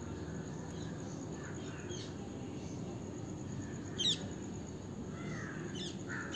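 Faint bird calls over a steady low background noise: a few short, sharp chirps, the clearest about four seconds in, and fainter calls in between.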